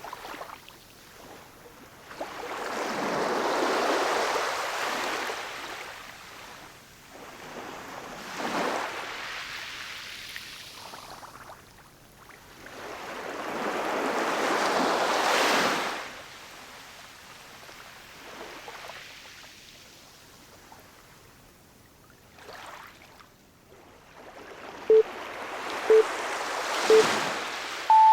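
Ocean waves washing ashore, each surge swelling and fading every few seconds. Near the end, three short timer beeps sound a second apart, counting down the end of the session.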